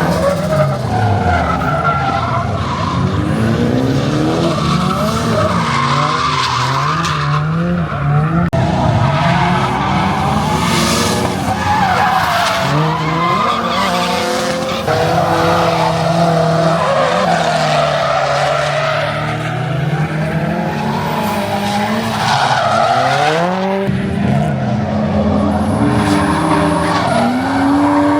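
Car engines revving up and down, several at once, over continuous tyre squeal and skidding.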